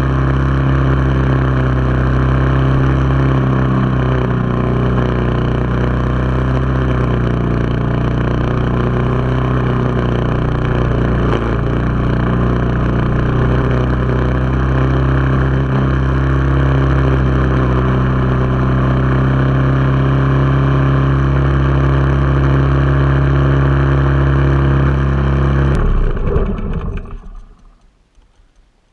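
Briggs & Stratton lawn mower engine running steadily on fresh gas after years of sitting, then shut off about 26 seconds in, dying away over a second or two.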